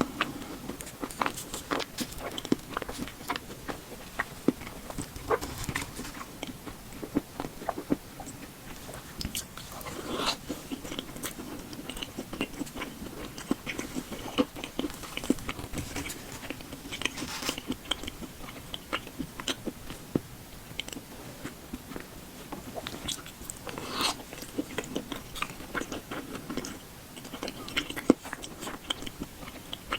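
Close-miked ASMR eating of boba: biting and chewing with many quick, irregular wet mouth clicks and smacks.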